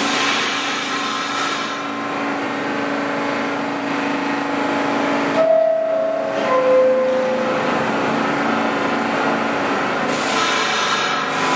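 A stopped R46 subway train humming with a steady hiss of air. About five and a half seconds in comes a descending two-note door chime. Near the end a rising rush of noise builds as the train gets ready to move off.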